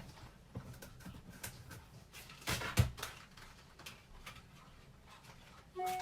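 Light clicks and knocks of objects being handled, with one sharp knock a little under three seconds in, and a brief pitched whine just before the end.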